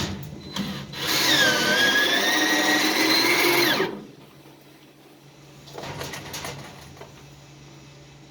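Power drill running for about three seconds under load, its whine dipping in pitch and then slowly climbing before it cuts off, as it bores or drives a screw into the truck's sheet metal. A fainter, shorter burst follows a couple of seconds later.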